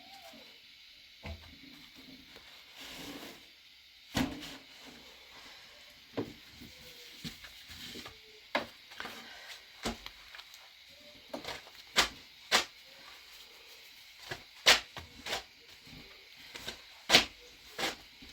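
A string of sharp, irregular knocks and clatters of objects being handled, about a dozen in all, with the loudest two near the end.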